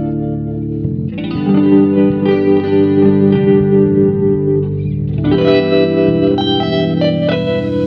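Background music: a guitar with chorus effect playing sustained notes and chords that change about a second in and again about five seconds in.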